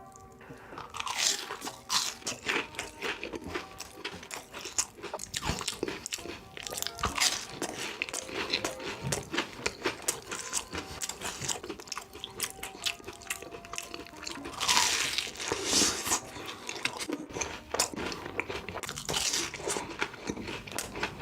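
Close-miked crunching and chewing of crisp fried food: repeated loud bites with wet chewing between them. The loudest crunches come about a second in and again a little past the middle.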